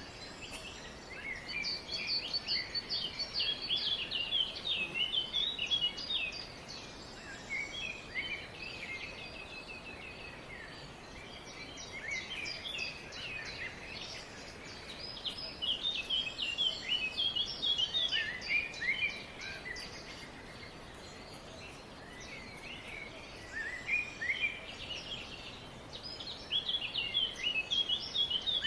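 Several birds chirping and singing in bursts of rapid high notes, coming in bouts of a few seconds with quieter gaps between, over a steady faint background hiss.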